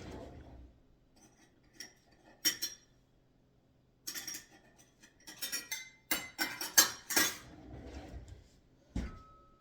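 Dishes and cutlery clinking and clattering as a dishwasher is unloaded and the pieces put away, with a few separate clinks, then a busy run of clatter, then a low thump near the end.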